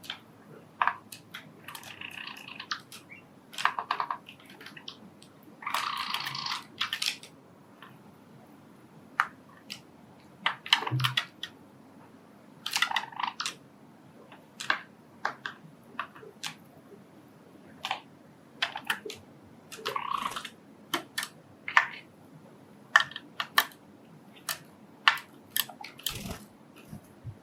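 Pet Java sparrows moving and pecking: irregular sharp beak clicks and taps with a few brief rustling bursts.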